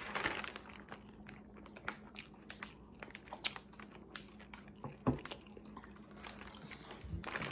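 Biting and chewing a crispy fried chicken sandwich: irregular crunches and wet mouth clicks, with louder bursts of crunching near the start and near the end.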